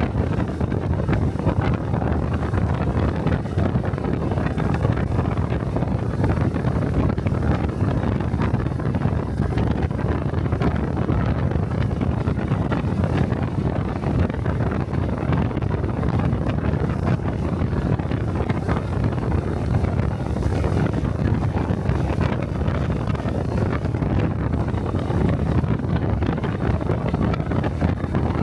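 Small single-cylinder Honda Cub motorcycle engine and exhaust running steadily while riding, heavily mixed with wind buffeting the microphone.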